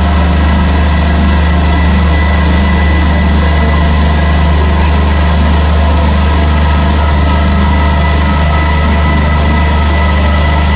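CNC machine running steadily: a constant loud low hum with a thin, steady high tone over it.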